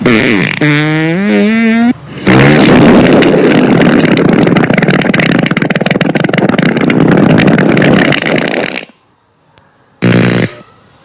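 Fart sound effects from a phone app. A short fart with a wobbling pitch comes first, then a long, loud rattling fart lasting about six seconds. About ten seconds in there is a short buzzing blast.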